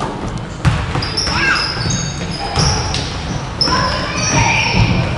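Basketball game in a gym: the ball bouncing on the court a few times, with high, short squeaks of sneakers on the floor and voices in the background.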